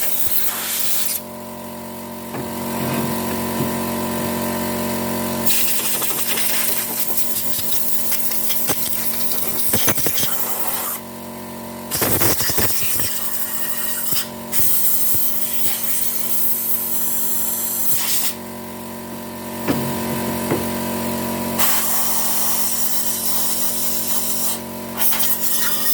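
Compressed-air blow gun hissing in repeated blasts of several seconds each, blowing diesel and debris out of a motorcycle engine crankcase and its oil ways, with an air compressor's steady hum underneath.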